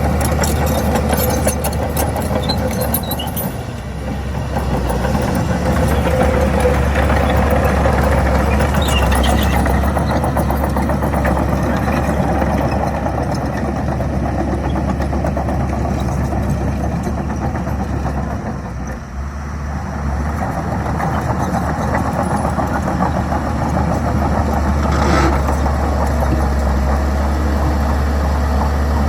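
Diesel engine of heavy earthmoving machinery running steadily under load. It dips briefly about two-thirds of the way through.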